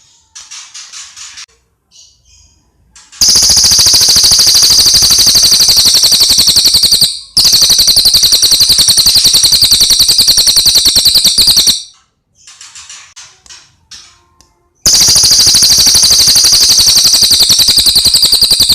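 Cililin bird song: loud, high-pitched rapid trills of evenly repeated notes in long bursts of about four seconds, with softer short chirp phrases in the gaps between them.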